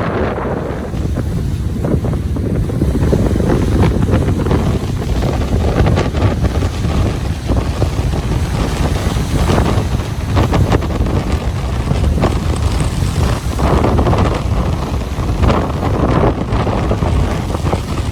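Ocean surf washing in on a beach, a continuous rushing with irregular surges, overlaid by wind buffeting the microphone with a heavy low rumble.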